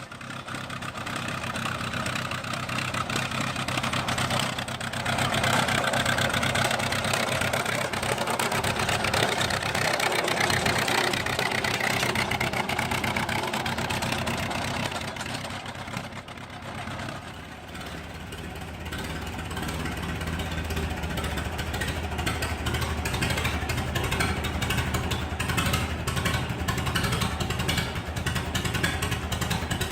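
Fordson E27N Major half-track tractor's four-cylinder petrol/kerosene engine running steadily. About two-thirds of the way through it dips briefly, then carries on with a deeper, heavier note.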